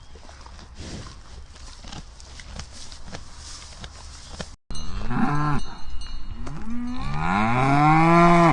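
Cows mooing: a short moo about five seconds in, a couple of brief calls, then one long moo that rises and falls near the end. Before them, after a cut, comes a stretch of outdoor noise with scattered light clicks.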